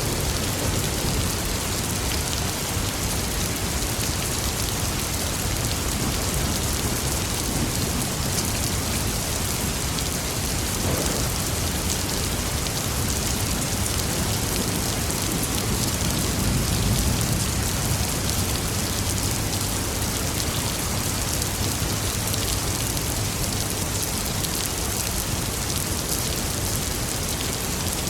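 Steady heavy rain falling, with a low rumble of thunder swelling briefly about two-thirds of the way in.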